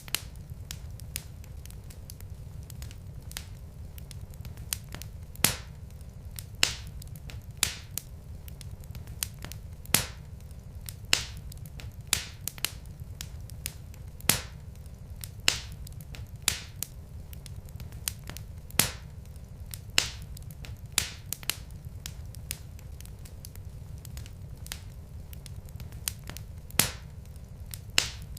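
Wood fire in a fireplace crackling: sharp, irregular pops from the burning logs, roughly one a second, over a steady low rumble.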